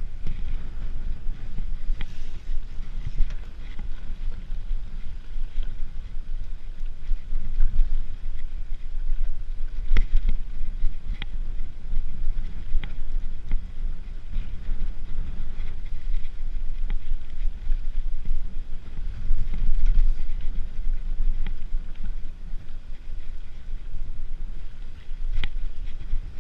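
Wind buffeting the microphone of a camera riding on a moving mountain bike, a steady low rumble, with a few sharp clicks and rattles from the bike now and then.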